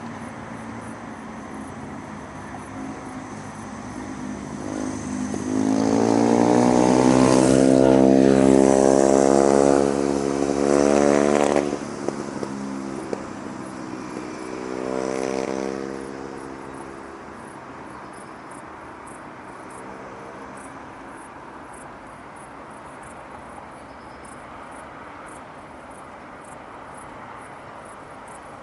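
A motor vehicle's engine accelerating past, its pitch rising, loudest from about five to twelve seconds in, with a second shorter rise around fifteen seconds. Steady distant town traffic noise lies underneath.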